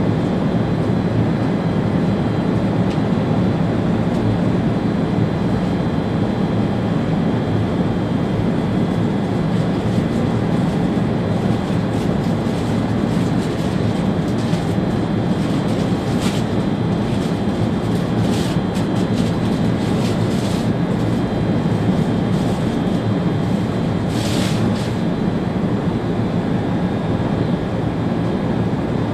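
ÖBB Railjet train running at speed, heard from inside the driver's cab: a steady rumble of wheels on the rails, with a few short crackles in the middle and another about three-quarters of the way through.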